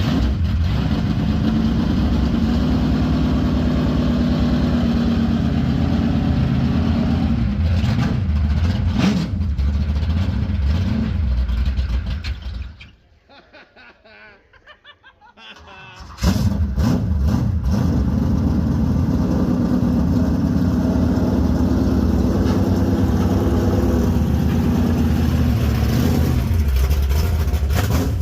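Truck engine running loudly and steadily. About halfway through it drops away for roughly three seconds, then comes back suddenly.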